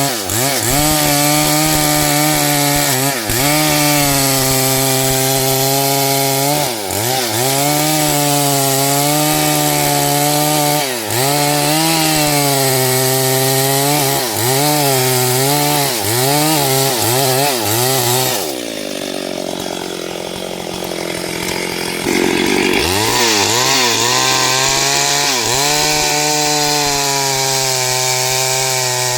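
STIHL 72cc two-stroke chainsaw at full throttle cutting wood, its pitch dipping again and again as the chain bites in. About two-thirds of the way through, the engine drops off to a lower idle for a few seconds, then revs back up and cuts on.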